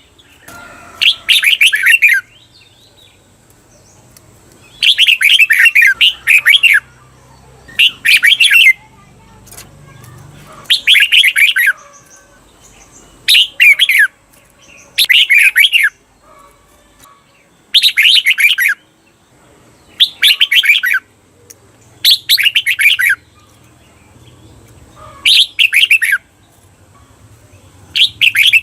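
Red-whiskered bulbul singing short, fast warbled phrases about a second long, repeated every two to three seconds. This is the doubled 'เบิ้ล' song that keepers play to train caged bulbuls.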